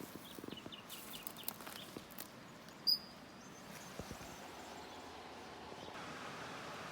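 A bird calling faintly: a quick run of short high chirps, then one sharp high chirp about three seconds in, over scattered small clicks and a soft hiss that swells near the end.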